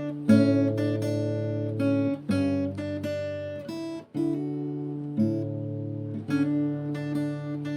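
Background music: an acoustic guitar strumming chords, a new chord struck roughly every second and left to ring.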